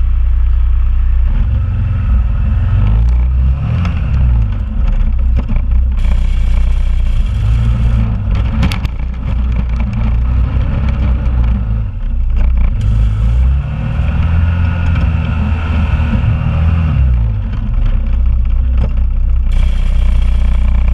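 2001 Honda Rubicon ATV's single-cylinder engine running while plowing snow with a front plow, revving up and settling back twice, with a few knocks of clatter partway through.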